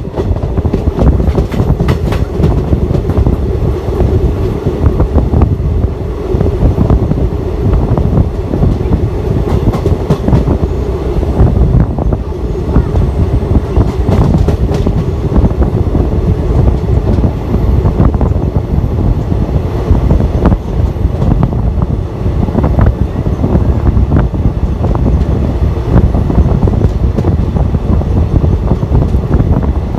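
Passenger train running along the track: a loud steady rumble with the wheels clattering irregularly over the rail joints, and a steady drone underneath.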